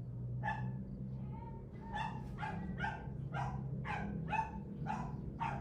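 Dog barking: a single bark, then after a short pause a steady run of quick barks, about two a second.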